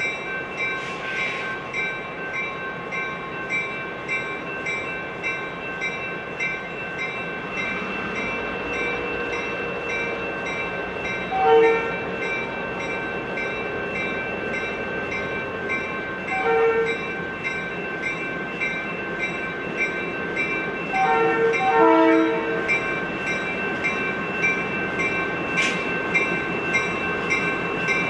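EMD GP9 diesel locomotive moving with a train, its bell ringing steadily. Short horn blasts sound about eleven and sixteen seconds in, and a longer series of blasts comes around twenty-one to twenty-two seconds.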